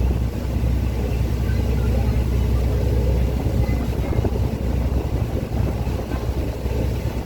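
Steady low rumble on board a boat: the boat's engine drone mixed with strong wind buffeting the microphone.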